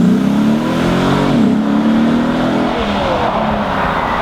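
Mercedes-AMG car engine revving, climbing in pitch and then dropping abruptly about a second and a half in. It holds briefly, then eases off into a rushing noise near the end.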